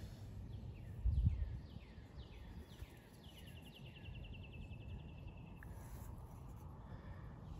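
A bird singing: a series of down-slurred whistled notes, about two a second, then a fast rattling trill lasting about two seconds. A brief low thump about a second in.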